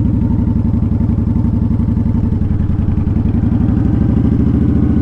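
Honda Shadow Spirit 750's V-twin engine running steadily while the motorcycle is ridden slowly, its firing pulses even throughout.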